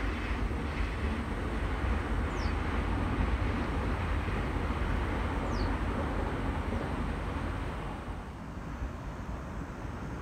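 Electric trains running past on an elevated viaduct: a steady rumble of wheels on rail that eases off a little near the end.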